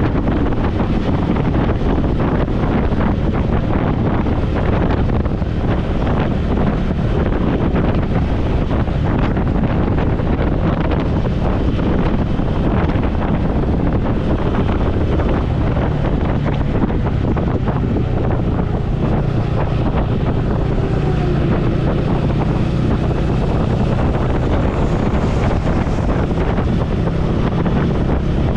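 Wind buffeting a helmet-mounted camera microphone on a motorcycle at road speed, with the bike's engine running underneath. The engine hum stands out more clearly past the halfway point.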